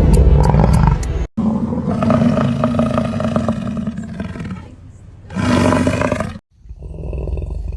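Wild animal roaring in three separate clips cut together, with abrupt gaps between them; music with a ticking beat ends about a second in.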